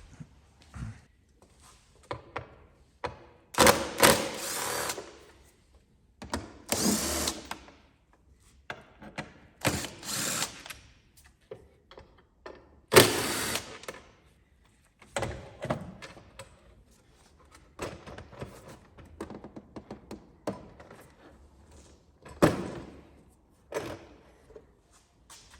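Workshop tool and handling noise: a series of short bursts, each about a second long, with smaller clicks and knocks between them. The loudest bursts come about 4 and 13 seconds in.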